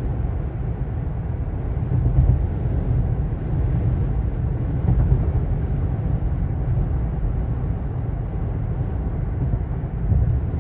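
Steady low rumble of a jet airliner's engines, with no clear rise or fall.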